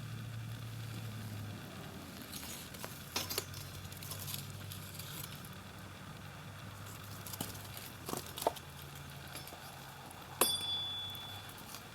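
A few scattered clinks and knocks of small objects being handled over a steady low hum, with one sharp metallic clink near the end that rings briefly.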